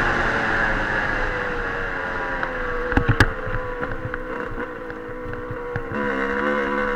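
Dirt bike engine running, its pitch sinking slowly as the revs ease off, with a few sharp knocks about three seconds in; the engine note drops to a lower, fuller tone near the end.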